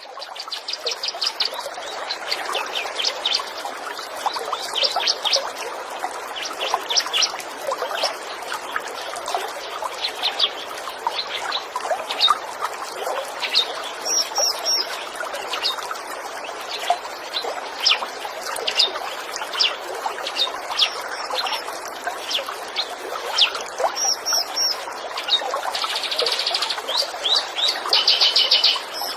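Small birds chirping in quick, sharp notes over the steady rush of trickling stream water, with denser bursts of chirping near the end.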